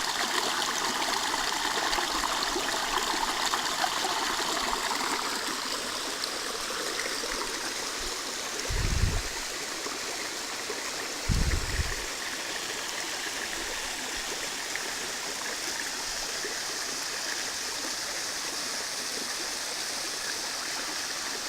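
Water from a low-flowing waterfall running over rocks in a steady rush, with two brief dull low bumps about nine and eleven seconds in.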